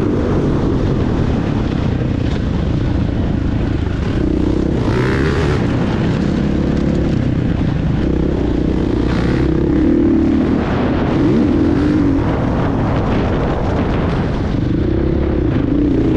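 Motocross motorcycle engine running hard, its pitch rising and falling again and again as the throttle is opened and closed, under a steady rush of noise.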